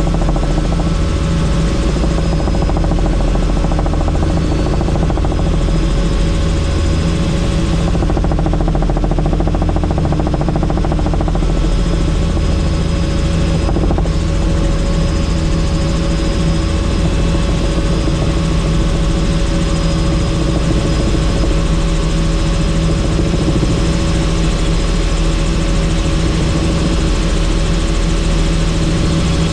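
Helicopter in flight with the doors off: a steady, loud drone of rotor and turbine engine with air rushing past, heard from inside the cabin.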